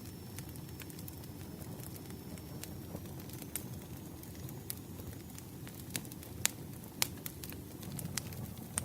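Campfire burning: a steady low rush with scattered sharp crackles and pops from the wood, two of them louder about two-thirds of the way through.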